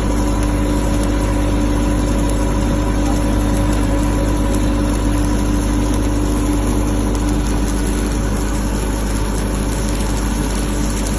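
Engine-driven welding generator running steadily at an even speed, a constant mechanical hum with no change in pitch.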